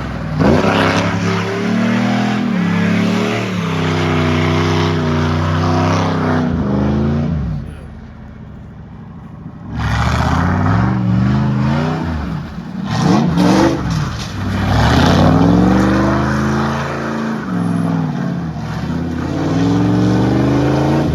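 Pontiac Firebird engine revving hard, its pitch rising and falling again and again as the car is driven in a drift; the revs drop away for about two seconds near the middle, then climb again.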